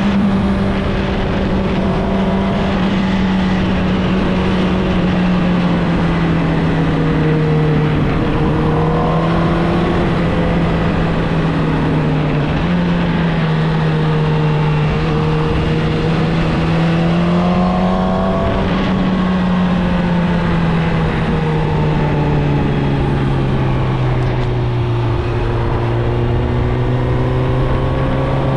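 Suzuki GSX-R1000 (2016, L6) inline-four engine through its stock exhaust, ridden at steady cruising revs, the engine note drifting gently up and down and easing lower near the end, over a steady rush of wind.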